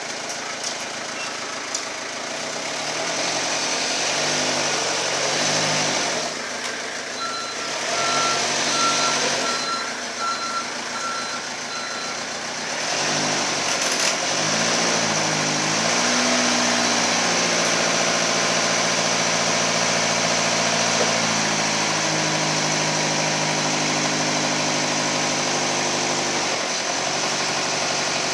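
Diesel engine of a Hyster H3 forklift truck running, its speed rising and falling as it is worked. A reversing beeper gives a run of short beeps about once a second in the first half. Later the engine holds a higher steady speed for about ten seconds before dropping back near the end.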